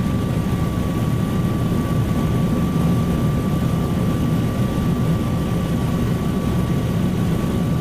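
Attack helicopter engine and rotor noise: a steady, unbroken low drone with a thin, constant high whine over it.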